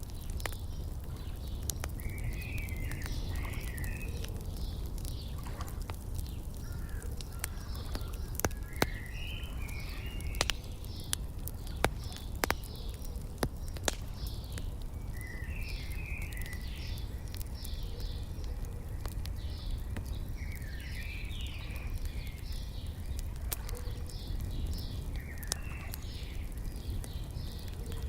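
Wood fire crackling with scattered sharp pops, layered with small birds chirping in short repeated phrases over a steady low rumble.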